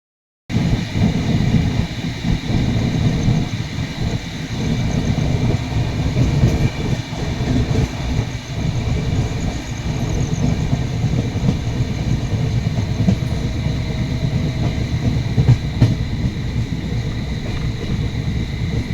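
Passenger train running, a continuous low rumble with wheel noise on the rails.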